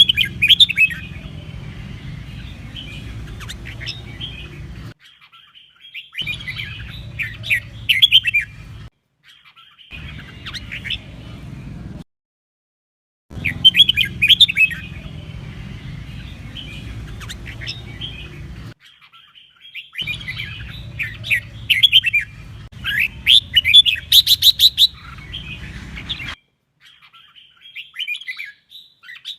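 Red-whiskered bulbul singing in repeated bursts of quick, warbling phrases. A low steady hum runs under the song and cuts out abruptly several times.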